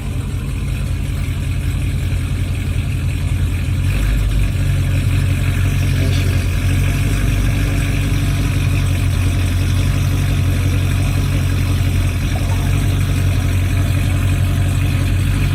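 Car engine idling with a steady deep rumble that grows louder about four seconds in.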